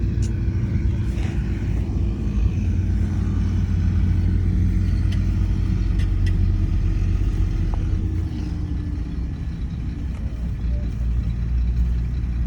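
Heavy diesel engine of earthmoving equipment running steadily with a low drone that eases off a little past the middle, with a few faint ticks.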